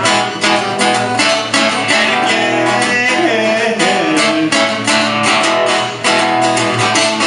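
Guitar strummed in a steady rhythm, playing out the instrumental ending of a folk song.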